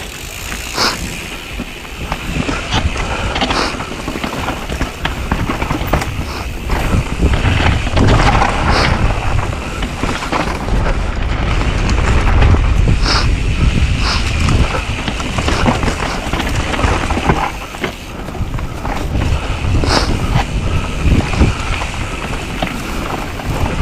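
Mountain bike riding down a dirt trail: knobby tyres rumbling over the ground, with the bike rattling and clattering over bumps and wind buffeting the microphone.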